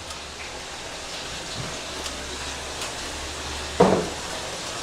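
Steady background hiss with a faint low hum: room noise. About four seconds in there is a brief vocal sound.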